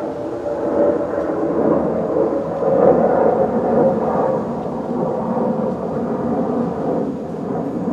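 Steady low rumble of an airplane passing overhead, swelling about three seconds in, with wind blowing through palm leaves.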